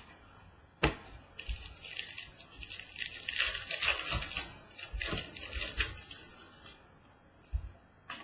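Trading cards and their packaging handled at a card break: a sharp click about a second in, then several seconds of crinkling and rustling, and a low thump near the end.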